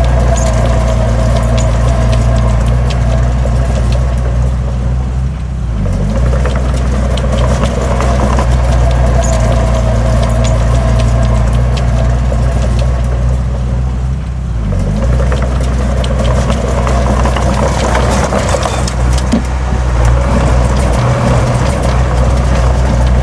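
Heavy earthmoving machine's diesel engine running steadily under load, with metallic clattering and scraping. The engine eases off briefly twice, about five and a half and fourteen and a half seconds in.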